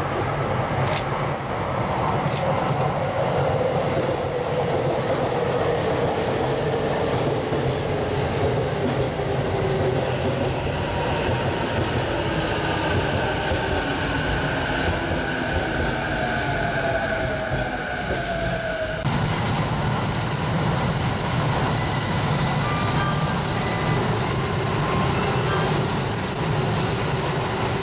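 Electric train running on rails: a steady rumble with a motor whine that glides slowly in pitch, and a few clicks of the wheels in the first seconds.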